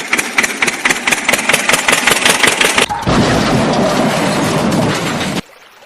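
A vehicle engine being cranked, with rapid strokes at about six a second. About three seconds in it catches and runs steadily, then cuts off suddenly near the end.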